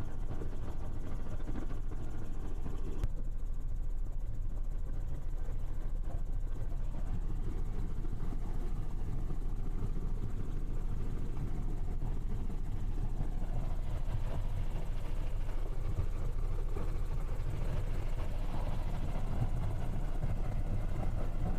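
Helicopter cabin noise: a steady low drone of rotor and engine, heard from inside the cabin. It turns a little duller about three seconds in.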